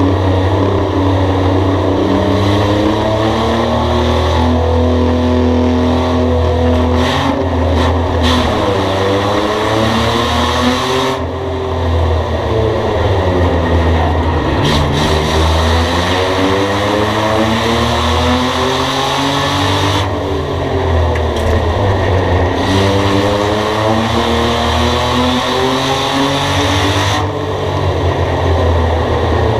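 Race car engine lapping a short oval track: held at high revs on the straights, the pitch dropping as the driver lifts for the turns and climbing again on the way out, in a swoop every several seconds.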